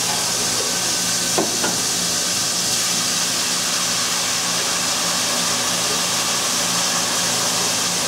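Red chile salsa frying in hot olive oil: a steady sizzle, with a low hum underneath and two light knocks about a second and a half in.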